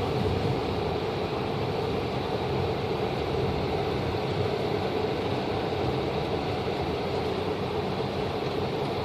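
Steady, unbroken rumble and hiss of a vehicle in motion, like road noise heard from inside a moving car.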